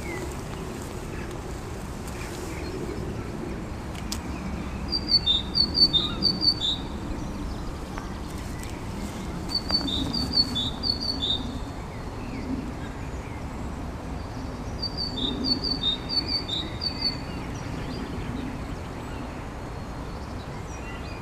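A songbird singing three bouts of a high two-note phrase, repeated about four times per bout, high note then lower note, over a steady low background noise.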